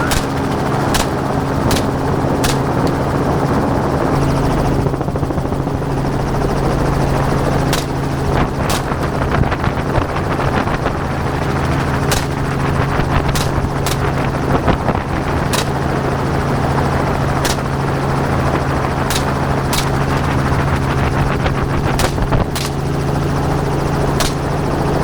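Helicopter running steadily in flight, a continuous drone with a steady engine and rotor hum, with sharp cracks scattered irregularly through it.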